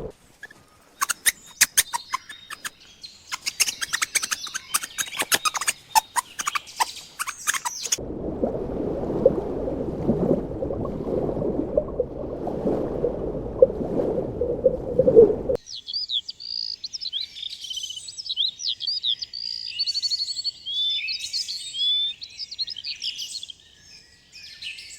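A run of different animal sounds, ending with small birds chirping and trilling rapidly for the last third. Before that come rapid clicks with high chatter, then a lower, rough, noisy sound, both from unidentified sources.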